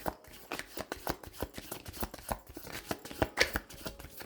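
Tarot or oracle cards being shuffled and handled: a quick, irregular run of papery flicks and taps.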